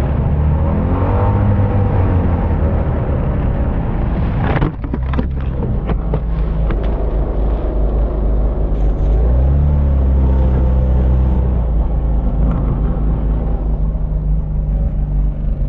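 Snowmobile engine running with rising and falling revs. A sudden jolt and a run of sharp knocks come about four and a half seconds in, and the engine is pulling harder around the middle.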